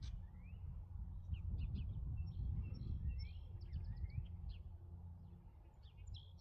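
Small birds chirping, many short notes and quick rising calls, over a steady low rumble.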